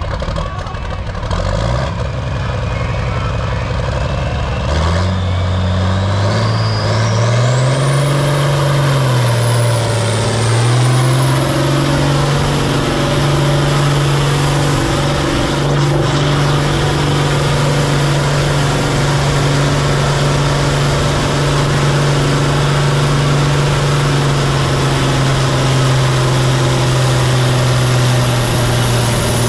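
John Deere 4555's turbocharged six-cylinder diesel pulling a tractor-pull sled under full load. The engine note climbs about five seconds in as the throttle opens, dips briefly, then holds steady at full power, with a turbo whistle rising to a high, steady whine.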